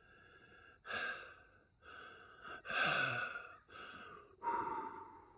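A man breathing audibly close to the microphone, four breaths in and out spaced about a second apart, the last ending in a short voiced sigh.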